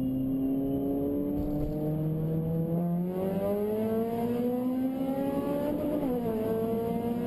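Honda K20 four-cylinder engine accelerating hard, its pitch climbing steadily, then dipping briefly about six seconds in as it shifts up and climbing again.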